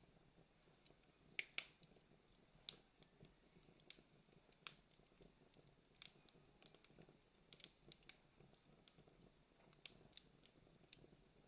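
Campfire crackling faintly, with scattered sharp pops at irregular intervals; the two loudest come close together about a second and a half in.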